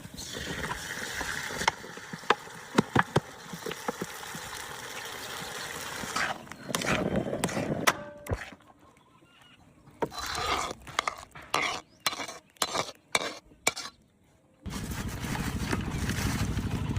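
Kitchen cooking sounds in several short segments: a steady hiss with scattered clinks of utensils, then a run of sharp knocks about two-thirds of the way through, and a steady hiss again near the end.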